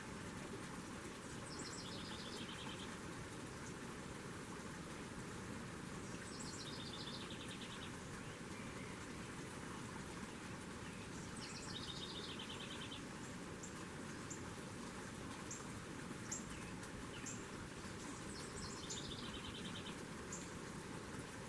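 A songbird repeating a short song four times, about every five seconds; each song steps down in pitch through a series of quick trills. Short high chip notes fall between the later songs over a steady background hiss.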